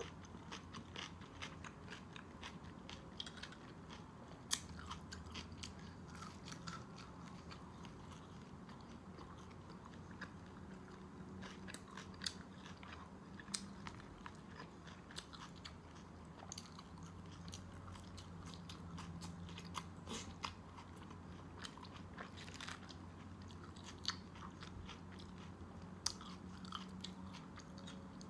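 Close-miked chewing of baked pork, with scattered sharp clicks and crunches as the meat and skin are bitten and chewed. A faint steady low hum sits underneath.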